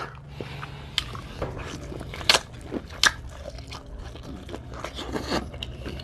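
Close-up eating of Dungeness crab: biting, crunching and chewing, with irregular sharp cracks, the loudest about two and a half and three seconds in.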